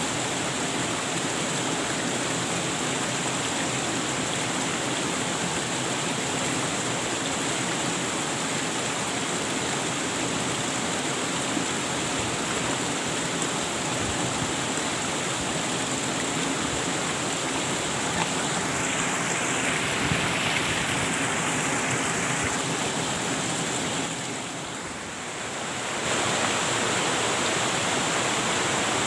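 Waterfall's steady rush of falling water, an even hiss with no break. About three-quarters of the way through it drops a little quieter for about two seconds, then comes back to full.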